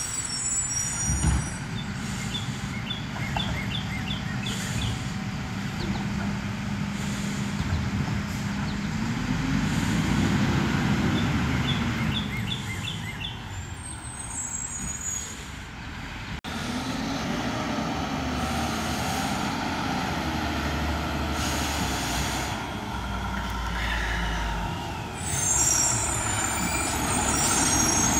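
Mack LR garbage truck's engine running, revving up and back down twice. A high hiss from the air brakes comes near the end.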